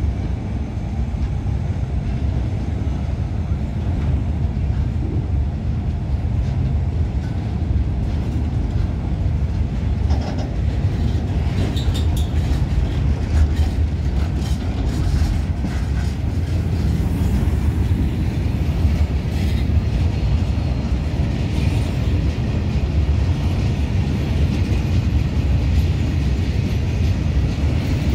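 Open-top freight wagons of a goods train rolling past close by: a steady low rumble of steel wheels on rail, with short clanks and squeaks from wheels and couplings scattered through, most of them around the middle.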